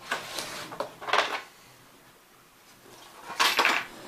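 Handling noise from a model aeroplane being picked up and moved about: short rustling, scraping knocks in three bursts, at the start, about a second in, and a louder one near the end.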